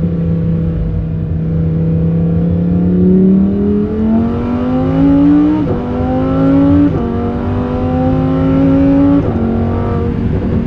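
Lamborghini Huracán Performante's naturally aspirated V10 on its stock exhaust, heard from inside the cabin. It holds a steady note for the first few seconds, then climbs in pitch under acceleration, with quick upshifts dropping the revs about six, seven and nine seconds in.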